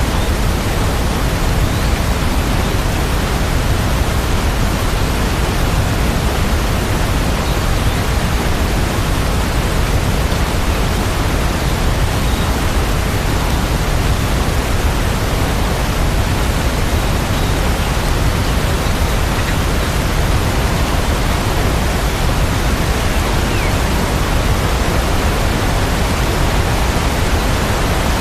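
Steady, unbroken sound of heavy rain: an even wash of noise, heaviest in the low end, with no music over it.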